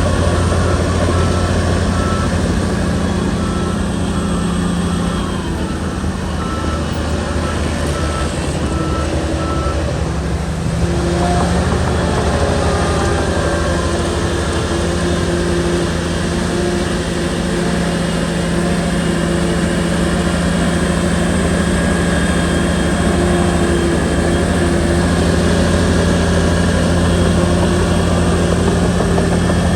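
Shantui bulldozer's diesel engine running under load, its pitch dipping then picking up again about a third of the way in. A reversing alarm beeps steadily over it for roughly the first ten seconds, then stops.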